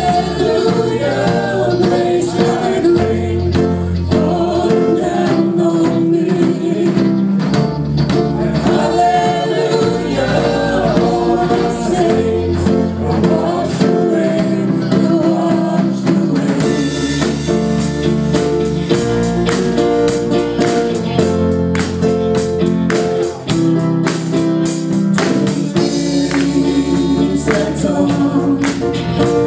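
Voices singing a Christian worship song together over a band with bass. The percussion becomes busier from about halfway through.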